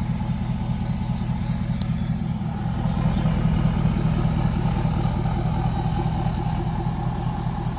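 Gas engine of a pressure washer running steadily at a constant speed, a low even hum with no change in pitch.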